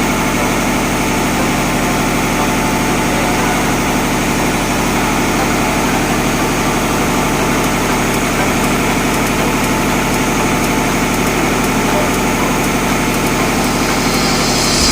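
Tugboat engine-room machinery running steadily: a constant, loud diesel drone with a hum of several fixed tones and no change in speed.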